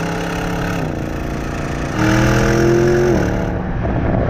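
2021 Porsche Cayenne GTS's twin-turbo V8 pulling under acceleration. The engine note dips in pitch about a second in. From about two seconds in it gets louder and climbs in pitch, then drops again just after three seconds, as at a gear change.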